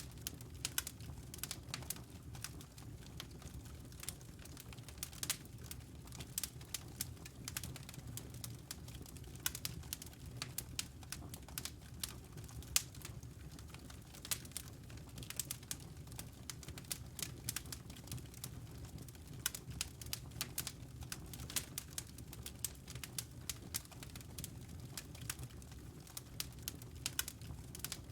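Wood logs burning in a fireplace: irregular crackles and pops, often several a second, over a steady low rush of flame, with one louder pop about halfway through.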